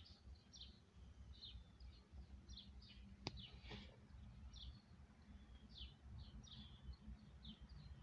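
Faint bird chirps: short, sharp high notes repeating about twice a second over a low background rumble. A single sharp click comes about three seconds in.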